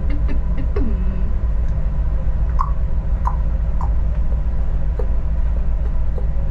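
Suburban passenger train running, a heavy steady rumble, with a few short squeaks near the start and three short high squeaks about half a second apart in the middle.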